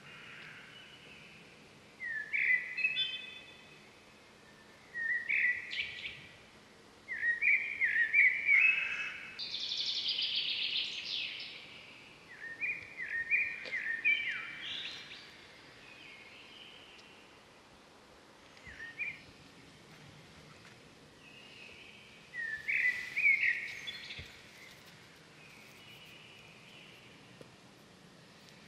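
Birds calling in short bursts of stepped, chirping phrases that come every few seconds over a quiet, steady background.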